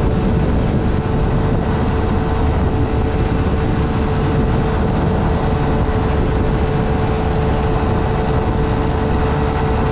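Motorcycle engine running at a steady pace under a heavy rush of wind and road noise, its note holding level.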